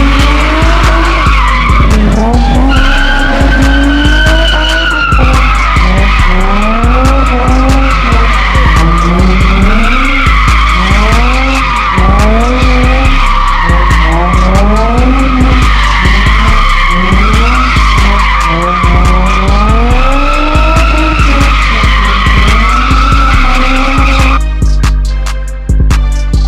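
Car tyres squealing continuously in a burnout or drift, with the engine revving up again and again every couple of seconds. The squeal stops near the end. A hip-hop beat with heavy bass plays underneath.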